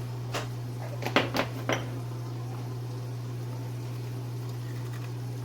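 Kitchenware clinking: four or five light, sharp knocks in the first two seconds, over a steady low hum.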